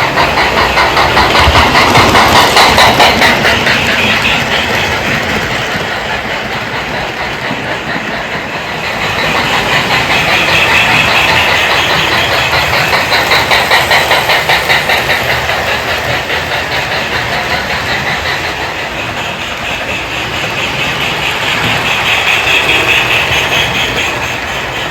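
Lionel Sound of Steam chuffing from a higher-ohm speaker in the tender of a running O gauge Lionel steam train set, mixed with the train's running noise on the track. The fast, crisp chuffing runs steadily, swelling louder and fainter several times.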